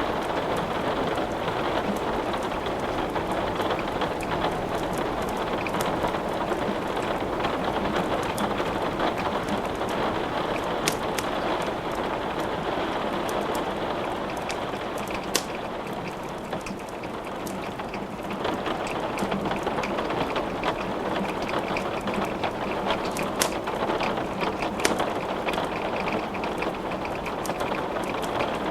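Steady rain falling, with a few sharp pops scattered through it from wood burning in a fireplace.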